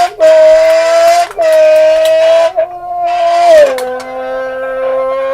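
Lips buzzed into an open tin can, giving a loud horn-like tone in imitation of a car. It is held in three long blows with short breaks between them, and the pitch steps down about two-thirds of the way through and holds there.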